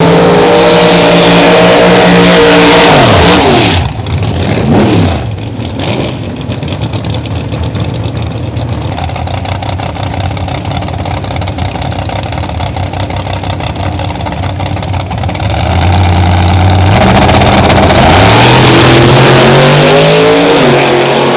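Drag-racing truck engines running at high revs, held at a steady pitch for the first few seconds, then falling in pitch and fading about four seconds in. The engines stay quieter until they swell loud again from about sixteen seconds, falling in pitch near the end.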